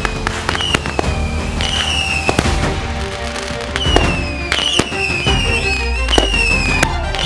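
Consumer aerial fireworks going off in a fast, irregular string of sharp bangs and pops, with several falling whistles, over background music.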